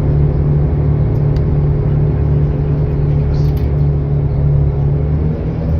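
Riyadh Metro train running between stations, heard from inside the carriage: a loud, steady rumble with a low motor hum, whose higher tones rise slightly near the end.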